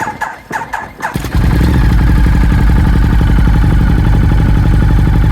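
Ducati Diavel Carbon's 1198 cc L-twin cranked on the starter for about a second, then catching and running loud and steady through a full, de-cat Termignoni exhaust.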